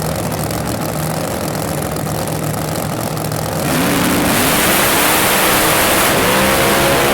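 Drag racing car engine idling steadily, then about three and a half seconds in revving up hard and loud, its pitch climbing.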